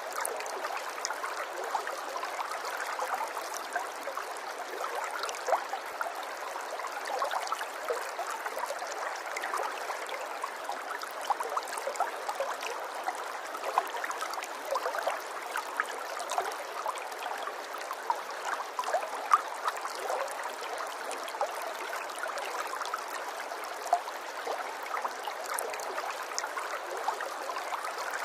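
Running water flowing steadily, full of small splashes and gurgles, with no deep rumble.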